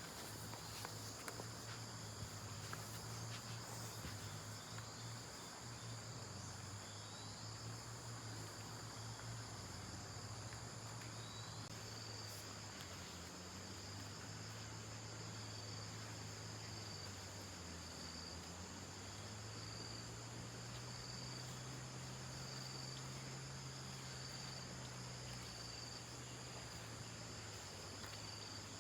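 Insects trilling steadily, with a cricket's short chirp repeating about once a second from about halfway through, over a faint low hum.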